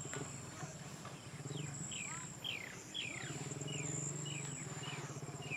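Outdoor wild ambience: a bird calling with quick descending whistles, about two a second, over a steady high-pitched insect whine, with a low steady hum underneath that grows louder in the second half.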